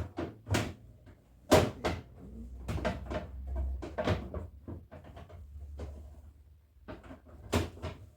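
Irregular knocks and clatter of fridge shelves, drawers and containers being handled and set down while a refrigerator is cleaned out: about a dozen sharp knocks spread over several seconds, with a faint low hum beneath.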